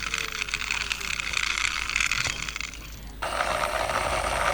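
Rapid plastic clicking and rattling from a toy vehicle being handled and moved. The sound changes abruptly about three seconds in.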